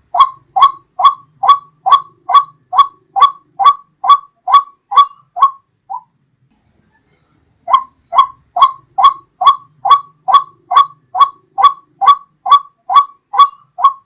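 White-breasted waterhen (ruak-ruak) calling as a lure: a run of loud, identical short notes, each sliding upward, about two to three a second. The calls break off for a moment about six seconds in, then start again.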